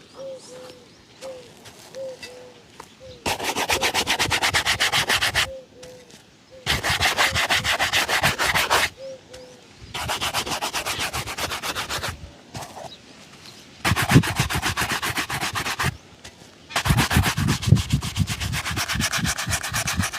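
A leather shoe being buffed in rapid back-and-forth strokes, in five bursts of about two seconds each with short pauses between. Faint small squeaks of rubbing on the leather come before the first burst.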